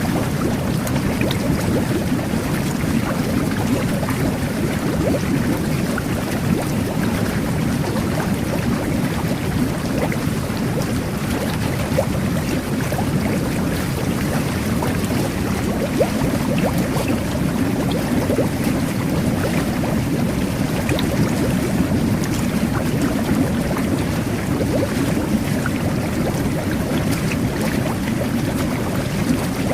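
Jet bath (whirlpool bubble bath) running: its water jets churn the bathwater in a steady rushing, bubbling sound, with small pops of bursting bubbles throughout.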